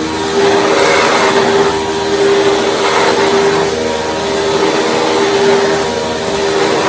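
ASDA Goblin GVU401R18 upright vacuum cleaner running on a dense rug on its high-pile setting: a steady motor whine under a rushing suction noise that swells and eases every couple of seconds.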